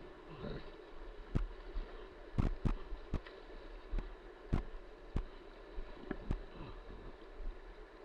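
Rushing whitewater with about a dozen sharp, irregular knocks, such as paddle and hull strikes on a kayak.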